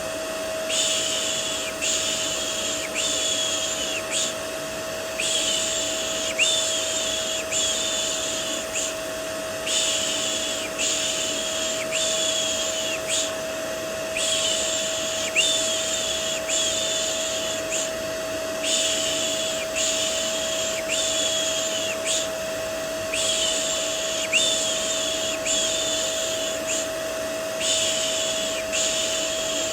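Vacuum cleaner running steadily, with a constant motor whine under its noise. Over it, repeated 'shh' shushing sounds for soothing a baby, about one per second in runs of three or four with short pauses between.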